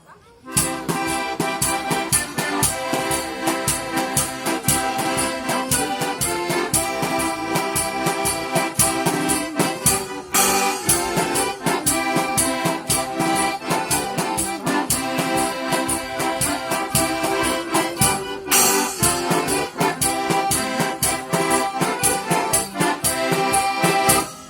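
Live folk band playing an instrumental opening with a steady, quick beat, starting about half a second in.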